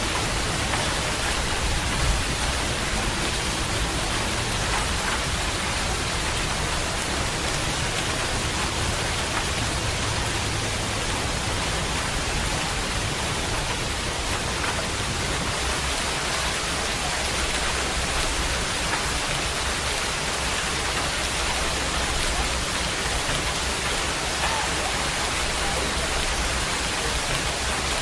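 Steady rain falling, an even hiss of drops hitting surfaces without a break.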